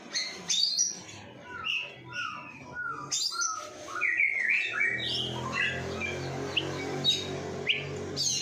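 Oriental magpie-robin (kacer) in full, nonstop song: a rapid string of short whistled notes and quick chirps sweeping up and down in pitch.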